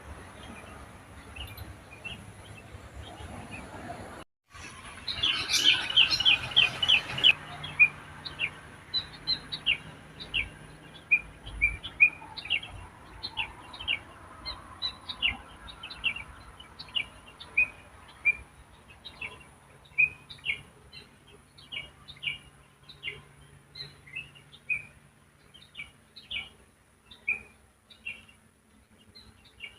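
A songbird calling with short, high chirps: a fast run of loud chirps about five seconds in, then single chirps repeating about once or twice a second.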